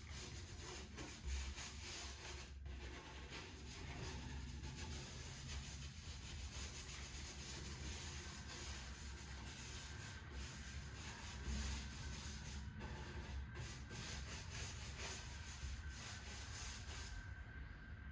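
Steady scratchy rubbing on oak wood, a continuous friction noise made of many small uneven strokes, typical of sanding or rubbing in a finish.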